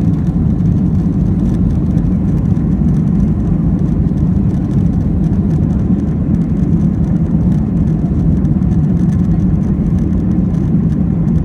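Steady low rumble of an airliner's engines and airframe, heard from inside the passenger cabin.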